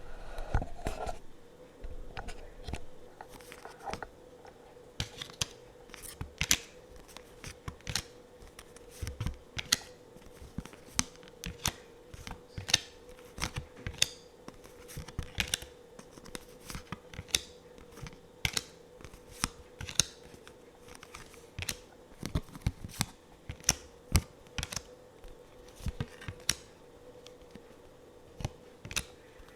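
Tarot cards handled close to the microphone: an irregular run of crisp, sharp clicks and snaps, about one or two a second, over a faint steady hum.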